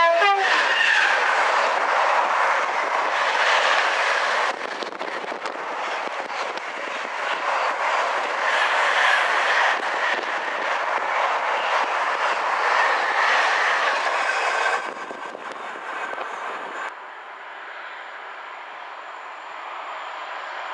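A freight train passing through at speed: a steady rush of wheel and rail noise, with the end of its horn dropping in pitch and dying out at the very start. The noise eases a little about four seconds in, fades about three quarters of the way through, and then cuts to a quieter, even rumble.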